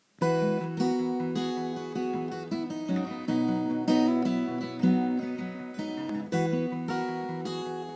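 Solo acoustic guitar, a 1967 Martin D-18 mahogany dreadnought, playing a song's instrumental intro. Chords are strummed and picked with clear attacks and notes ringing on between them, starting just after the beginning.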